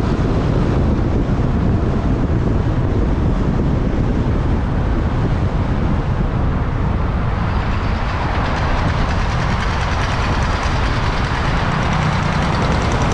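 Riding a motorbike through traffic: steady wind rush on the microphone over engine and road rumble. A brighter hiss builds up from about halfway in.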